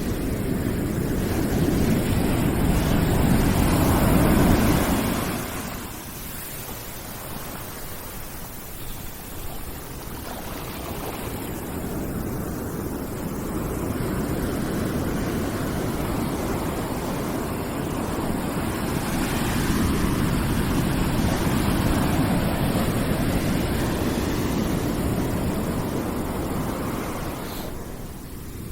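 Steady rushing white noise, swelling and ebbing in slow surges. One surge peaks about four seconds in and drops off sharply; then a long build crests around the middle and fades near the end.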